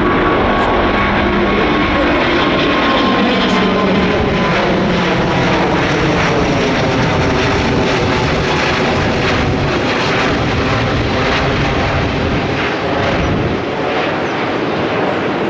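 Airbus A350-900's Rolls-Royce Trent XWB turbofan engines at takeoff thrust, a loud, steady jet noise. Several tones within it slowly fall in pitch.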